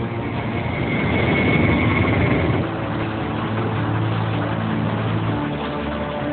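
Engines running steadily, several pitched hums shifting over time, with a thin high whine through the first couple of seconds.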